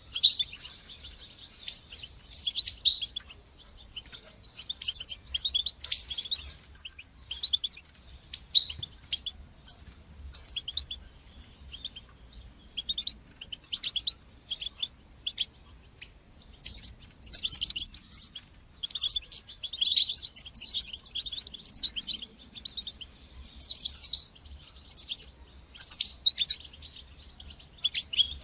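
European goldfinch twittering and chirping in short, irregular bursts of quick high notes and sharp call notes, with brief pauses between phrases.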